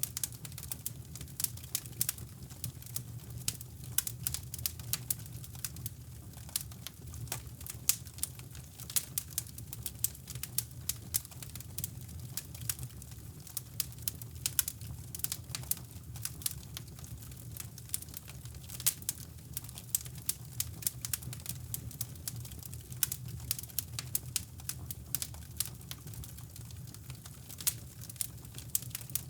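Wood fire crackling in a fireplace, with many irregular sharp pops and snaps of varying strength, over a steady low rumble of brown noise.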